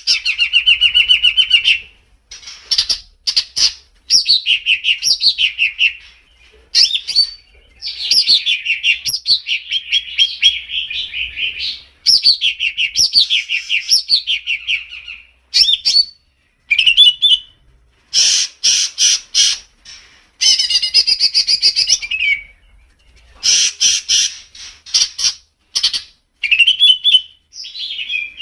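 Songbird singing in loud, rapid phrases of quick repeated chirps and falling trills, each one to four seconds long with short pauses between them. This is masteran song, the kind of recording played to caged songbirds to teach them calls.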